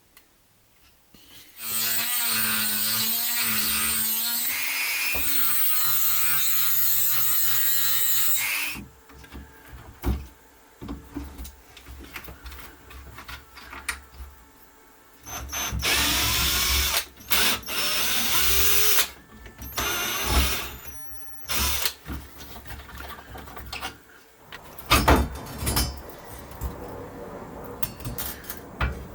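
An electric power tool running under load in several bursts, the longest about seven seconds with its pitch wavering, a shorter one later that spins up, with knocks and clatter between the runs.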